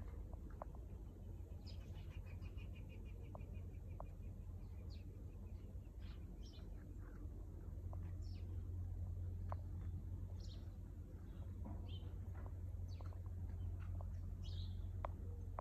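Small birds chirping and calling in short scattered notes, with a rapid trill lasting a couple of seconds near the start, over a steady low hum.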